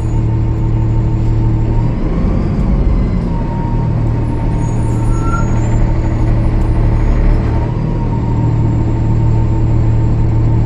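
Cummins ISL9 diesel engine of a Gillig Low Floor transit bus running steadily, with a thin high whine over the low drone; this bus has a leaking turbo. The drone changes briefly about two seconds in.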